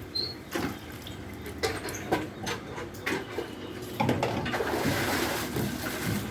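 Water running and splashing as it drains out through a washing machine's freshly cleared drain, with several knocks of handling. The flow gets louder about four seconds in.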